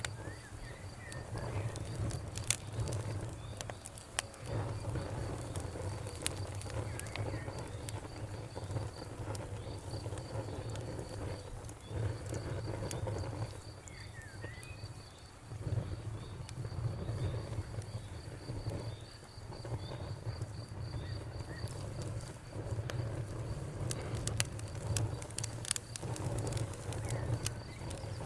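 Wood fire crackling with scattered sharp pops, over a low rumble that swells and fades every few seconds. A cricket chirps steadily throughout, and a bird gives a few short chirps.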